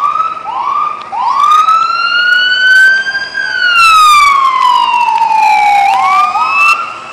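Loud emergency-vehicle siren close by: a few short rising whoops, then one long wail that climbs for about two seconds and falls slowly, then two more whoops near the end.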